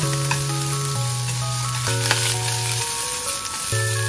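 Sliced sausage and onion sizzling as they fry in a pan, stirred with chopsticks, a steady hiss throughout. Background music of slow held notes plays over it.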